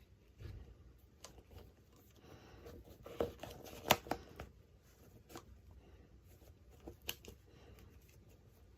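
Hands unboxing miniature toy dolls: scattered small clicks and taps on plastic, with a denser stretch of rustling about two to four seconds in.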